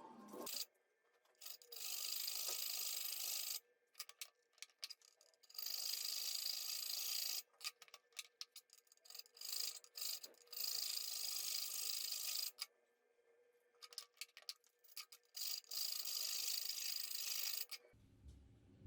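A hand file rasping across steel in long strokes of one to two seconds each, with short pauses between strokes.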